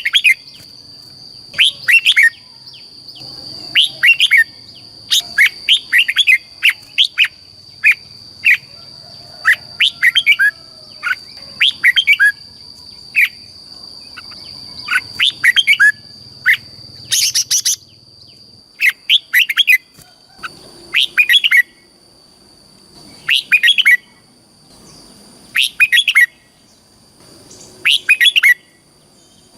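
Red-whiskered bulbul singing: short, bright warbled phrases repeated about once a second, over a steady high-pitched tone.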